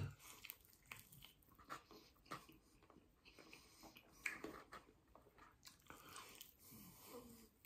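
Faint chewing and biting on a sauced chicken wing: scattered wet mouth smacks and small crunches of crisp, overcooked skin, one a little louder about halfway through.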